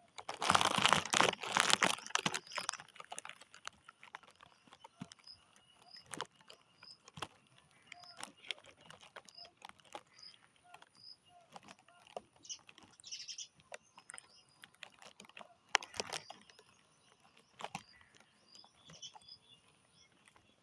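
Loud rustling for the first couple of seconds, then scattered small clicks and crunches in grass with faint short high bird chirps repeating about twice a second.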